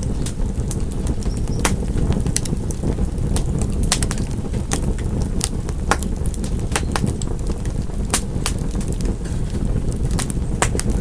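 Fireplace fire crackling: irregular sharp pops and snaps over a steady low rumble of the burning fire.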